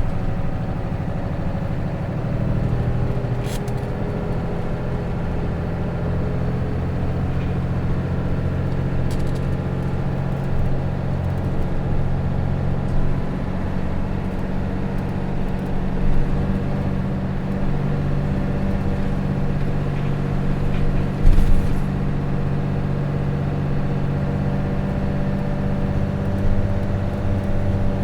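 Hino Rainbow RJ bus's J08C diesel engine running steadily under way, heard from inside the cabin, with a few short knocks or rattles along the way.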